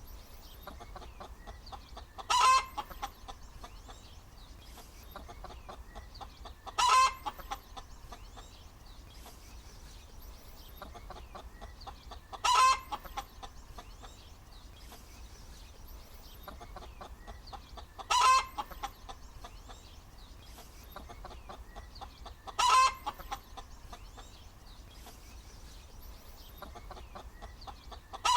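A hen clucking softly and continuously. About every five seconds she gives a loud, short cackling call.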